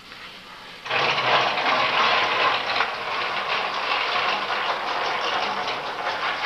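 Loud hissing rush of steam from steam machinery, starting suddenly about a second in and carrying on with a rapid flutter.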